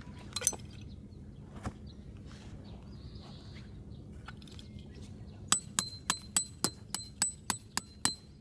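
A hammer driving a metal tent peg: two single knocks early on, then a quick run of about a dozen ringing metallic strikes, roughly four a second, over the last three seconds.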